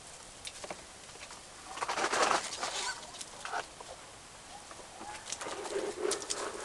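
A bird's low cooing call a little after halfway through, with a burst of rustling noise around two seconds in and scattered small clicks.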